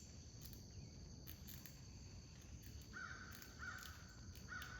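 Crows cawing: four short caws in quick succession starting about three seconds in, over a steady high-pitched drone of insects.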